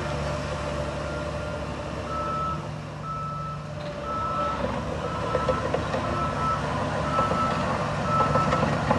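Reversing alarm on a heavy construction machine beeping steadily about once a second, over its engine running. The engine grows louder and rattlier in the second half.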